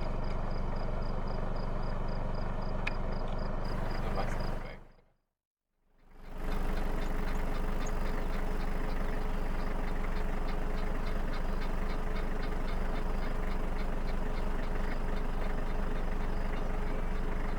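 A vehicle driving, with steady low engine and road noise, in two short clips that each fade in and out. A fast, even ticking runs over the second clip.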